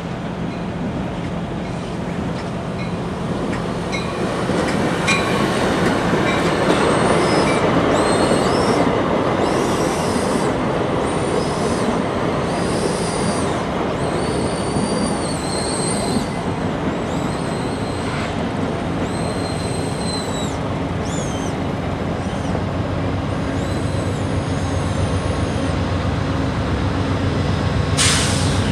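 A train rolling past with its wheels squealing: short high-pitched squeals come and go over a steady low rumble and drone.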